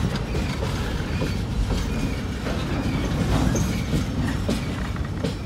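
Freight cars rolling past on steel rails: a steady low rumble with irregular wheel clacks over the rail joints and a few brief high squeals from the wheels.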